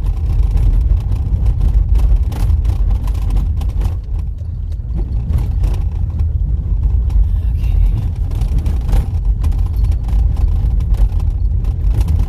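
A car driving on a rough dirt road: a steady low rumble of engine and tyres, with scattered small knocks and rattles from the bumps.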